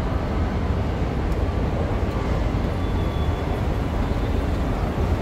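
Steady low rumble under an even wash of urban background noise, with no single event standing out.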